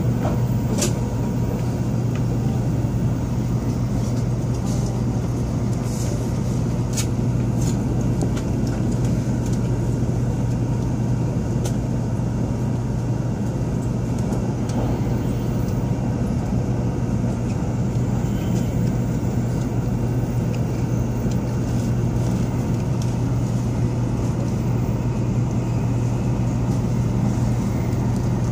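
Cabin noise inside a Taiwan High Speed Rail 700T bullet train running at speed: a steady low rumble from the running gear and track with a faint steady hum, and a few light clicks.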